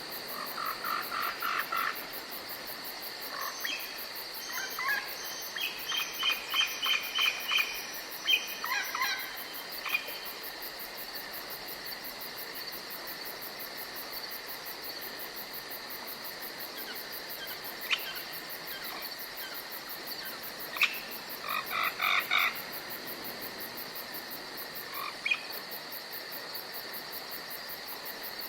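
Forest animal ambience: steady high insect chirring, like crickets, with three bouts of rapid pulsed calls, each about two seconds long, near the start, a little further in, and about three-quarters through, plus a few single chirps.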